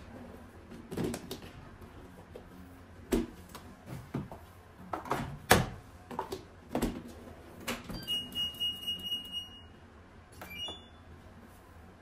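Household knocks and clatter from things being handled, then an electronic beep tone from a household appliance lasting about a second and a half, followed by a couple of short higher beeps.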